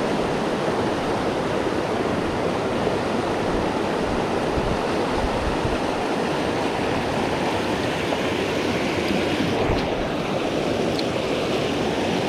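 Steady rush of river water tumbling over rocks, with some low wind buffeting on the microphone.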